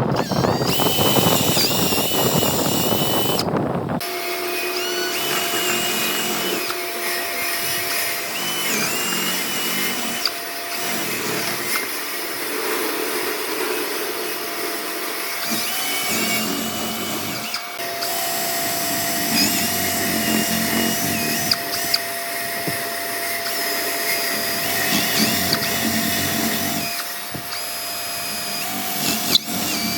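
Electric power tool running on wood, a motor whine whose higher tones waver as the load changes. For the first four seconds the sound is a denser, harsher rush, then it settles into a steadier hum with a held tone.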